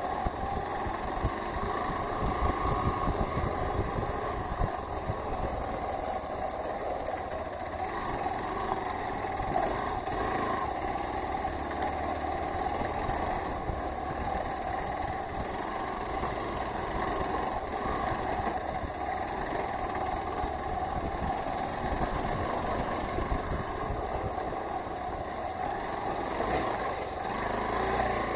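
Hero Xpulse 200 4V motorcycle's single-cylinder engine running steadily during an off-road trail ride.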